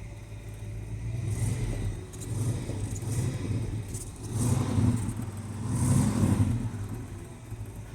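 A vehicle engine running and revving up and down in several swells, the two loudest a little past the middle.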